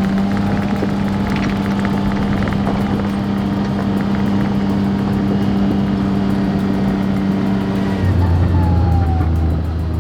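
A vehicle engine running steadily with a constant drone. Near the end the engine note abruptly drops lower.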